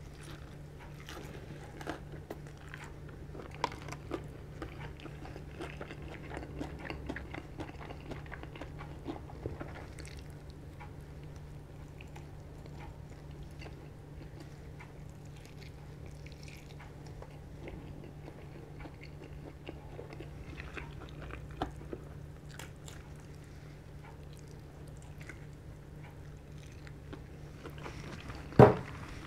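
Close-miked biting and chewing of crispy KFC Szechuan fried chicken: scattered small crunches and chewing, over a steady low hum. One sharp, much louder crunch or knock comes near the end.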